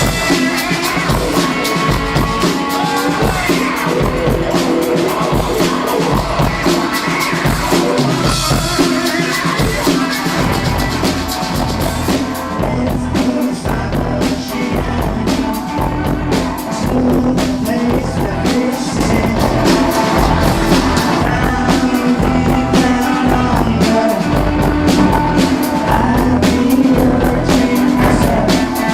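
Live band playing rock music over a steady drum-kit beat.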